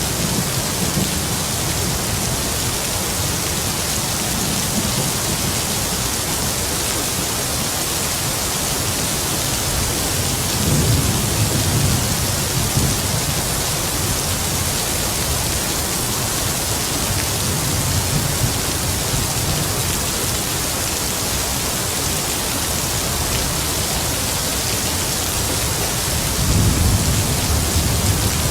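Heavy rain falling with a steady hiss, with distant thunder rumbling low several times, most strongly about eleven seconds in and again near the end.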